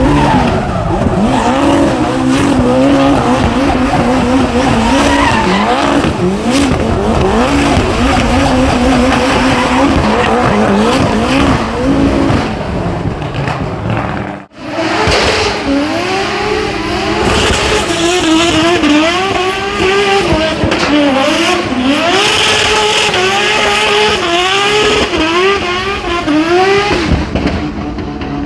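Performance car engines revving hard, the pitch swinging up and down with repeated quick blips, over tyre squeal and skidding. About halfway through the sound cuts abruptly to a second car revving in short rising surges.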